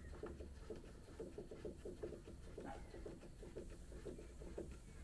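Faint bird calls in the background: a few short descending chirps over a soft, steady run of quick low calls.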